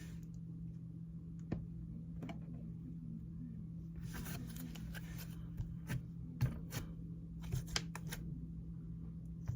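Slime being squished and worked by hand, with a scatter of sharp clicks and pops starting about four seconds in, over a steady low hum.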